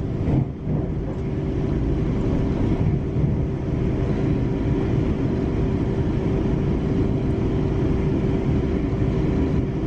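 Steady running noise of a passenger train at speed, heard from inside the carriage, with a steady hum throughout.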